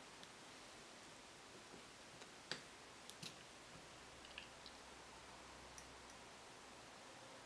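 Near silence with a few scattered light clicks and taps. The loudest comes about two and a half seconds in, and a cluster of smaller ones follows over the next few seconds.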